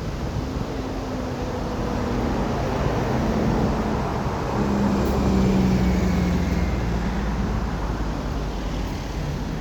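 Heavy trucks driving past with their diesel engines running, over a steady rush of road noise. The engine note shifts partway through as another truck goes by.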